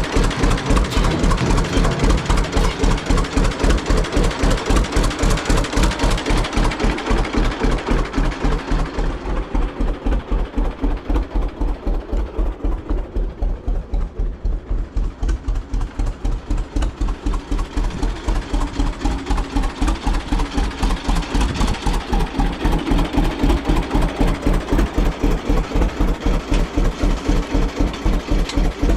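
John Deere G tractor's two-cylinder engine running with a steady, even pulsing beat. The sound dulls for several seconds midway, then comes back.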